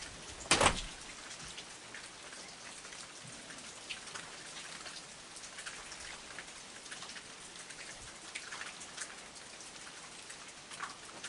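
Steady heavy rain with scattered close drops ticking, and one loud knock about half a second in.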